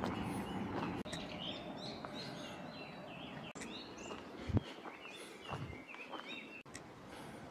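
Small birds chirping with many short, high calls over a low outdoor background hiss. A single low thump comes about halfway through.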